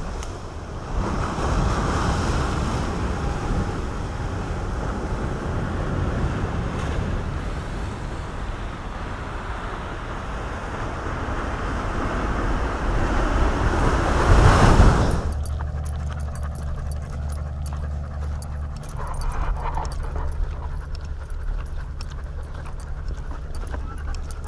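Wind rushing over the microphone, with surf breaking on rocks, for about fifteen seconds. It then cuts off suddenly to a quieter steady low hum with a dog panting.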